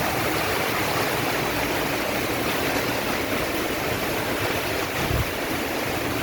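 Heavy rain pouring down in a steady, dense hiss, with a brief low thump about five seconds in.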